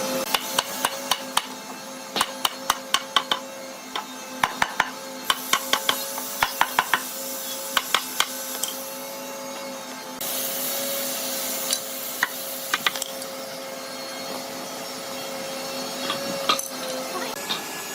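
Woodworking machine running with a steady hum, with clusters of sharp knocks through the first half. About ten seconds in, a louder hiss starts and holds.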